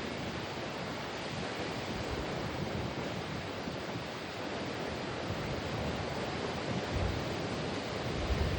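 Rough ocean surf in strong wind: a steady wash of breaking waves, with wind gusts buffeting the microphone about seven seconds in and again near the end.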